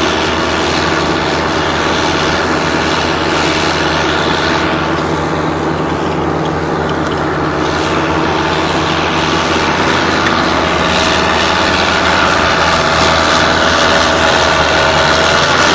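Engine of a tracked swamp vehicle running steadily under way, a continuous drone with a held pitch that grows a little louder near the end.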